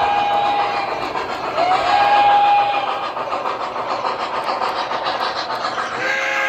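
O gauge model train running on three-rail track with a steady rolling clatter. About a second and a half in, its sound system sounds a whistle once for about a second, rising into one held note. Near the end a deeper horn with several notes starts.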